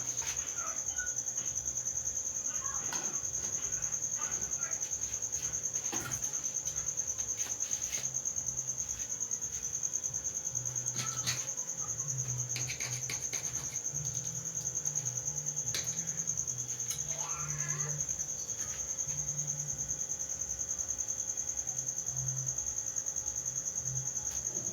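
Crickets chirring in a steady, unbroken high trill, with a few faint clicks and knocks scattered through it.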